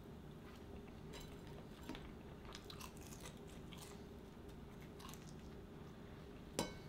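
A person chewing a mouthful of scrambled eggs with small, quiet crunches and mouth clicks, and one sharp click near the end.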